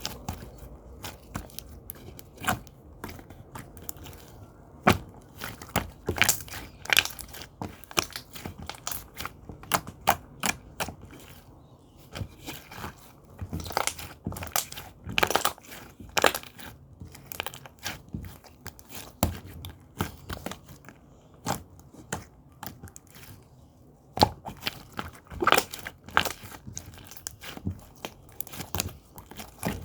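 Irregular crisp crackling and crunching close to the microphone, many sharp clicks at uneven spacing, with a couple of quieter stretches.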